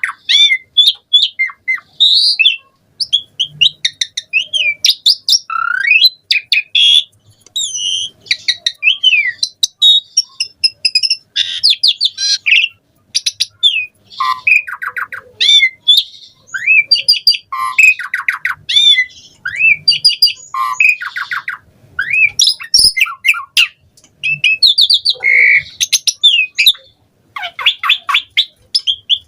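Asian pied starling (jalak suren) singing a long, varied song of quickly changing whistles, harsh squawks and rapid click-like trills, packed with mimicked notes.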